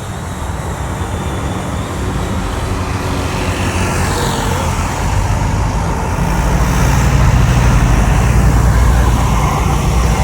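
Jet airliner engines rumbling, growing steadily louder as the aircraft comes closer.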